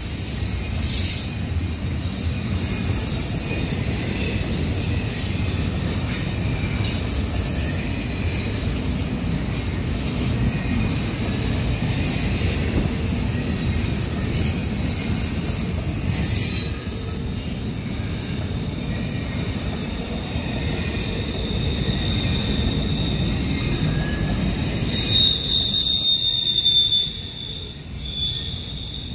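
Double-stack intermodal container well cars rolling past on the rails with a steady low rumble of wheels, broken by a few sharp clanks. Thin high-pitched wheel squeal runs over it and grows loudest near the end.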